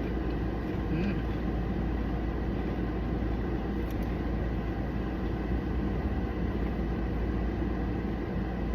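Steady low rumble inside a car, with no change in level.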